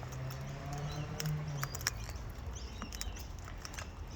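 Scattered small clicks and scratches from cockatoos' beaks and claws as the birds move about and nibble close by, with a low steady hum for about the first second and a half.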